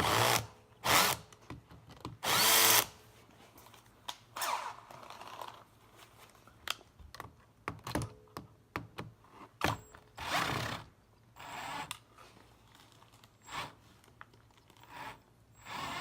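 Power drill spinning a socket in a series of short bursts, each about half a second to a second, working bolts on a semi-hermetic compressor's casing.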